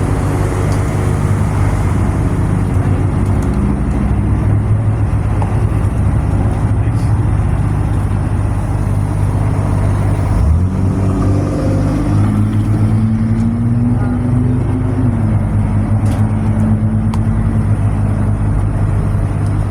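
Loaded dump truck's diesel engine running steadily while driving. The engine note dips briefly about halfway through, then climbs slowly and drops back a few seconds later.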